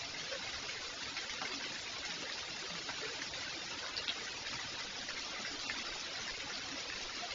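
Rain falling: a steady, even hiss of water with no change in strength.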